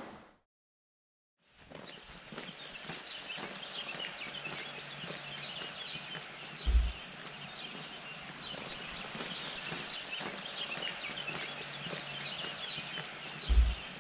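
Songbirds chirping and singing in repeated bouts, starting after a second and a half of silence. Two brief low thuds about seven seconds apart.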